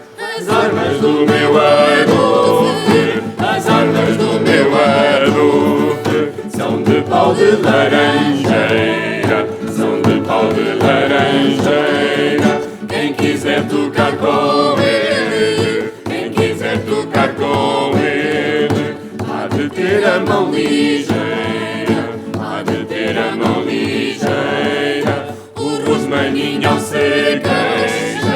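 Vocal ensemble singing in several parts over steady held low notes, with the upper voices moving above them; the singing begins right at the start after a brief drop in level.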